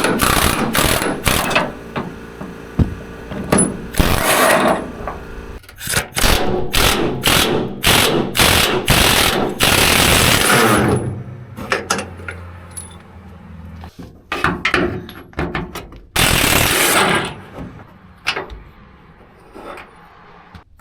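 Impact wrench hammering in repeated short bursts, some lasting about a second, as bolts are run out.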